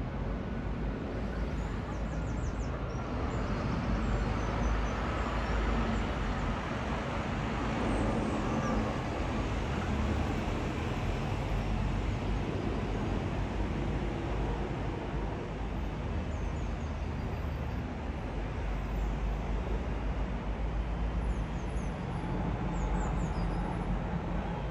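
Airbus A350-1000 airliner's Rolls-Royce Trent XWB jet engines rumbling steadily as the aircraft flies past, a deep noise that swells slightly and stays even throughout.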